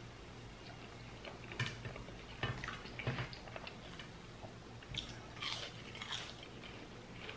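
Close-miked chewing of a mouthful of mashed potato, corn and fried chicken, with scattered soft crunches and wet mouth clicks.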